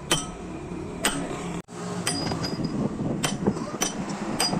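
Hammer blows on metal during truck wheel-hub work: six sharp strikes roughly a second apart, each leaving a short metallic ring.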